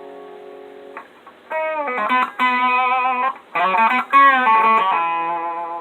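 Electric guitar, an Ibanez Destroyer, played through an Electro-Harmonix Screaming Bird treble booster set just above its lowest point into a clean valve amp. A chord fades out, then a lead phrase of single notes with string bends follows, ending on a held note that fades.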